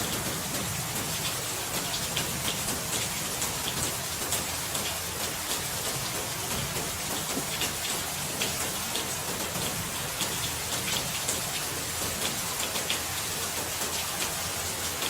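Steady rain falling, a dense hiss of many individual drops pattering on a surface.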